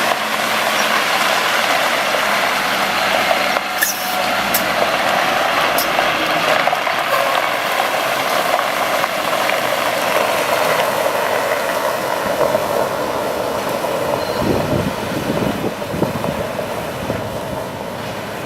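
2004 Ford F750 water truck with its Caterpillar C7 diesel running, heard as a steady hiss, with a few sharp clicks about four seconds in and some low bumps near the end.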